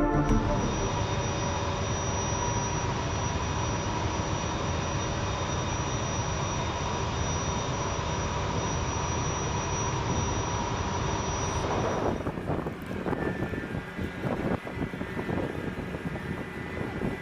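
Jet aircraft engines running with a steady whine over a rumble. About twelve seconds in, the sound cuts to a rougher, uneven engine noise.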